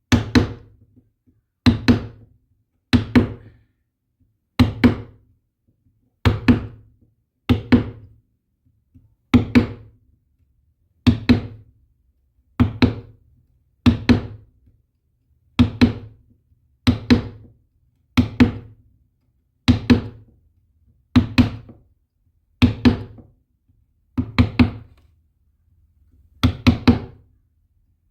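A steady series of knocking strikes, about one every second and a half, many landing as a quick double hit.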